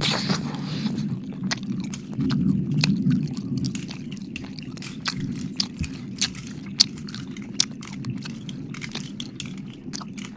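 Close-miked wet mouth sounds: irregular sharp clicks and smacks of licking and mouthing at the microphone, over a steady low rumble.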